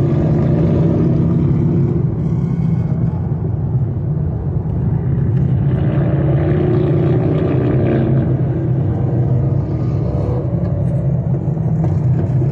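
Steady drone of engines and road noise on a freeway, heard from inside a moving car, with a pack of motorcycles riding alongside. The engine note shifts a little about halfway through.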